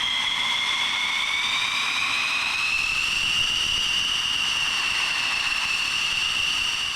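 F-16 fighter's jet engine whining, its high-pitched tone rising slowly for the first few seconds and then holding steady.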